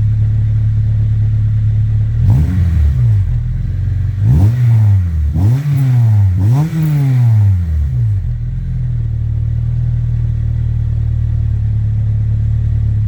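Honda Integra Type R DC5's 2.0-litre four-cylinder engine idling through a freshly fitted second-hand Spoon N1 exhaust. About two seconds in it is revved four times, each rev rising and dropping back, then it settles to a steady idle.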